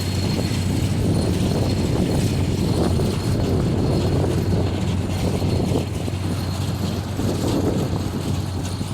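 Tractor and small square baler running steadily in the field, with a constant low engine hum. Wind buffets the microphone throughout.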